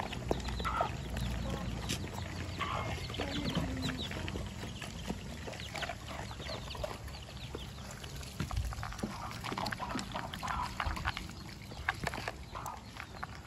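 Farm animals feeding: scattered short clucks and grunts over many small clicks of pecking and chewing.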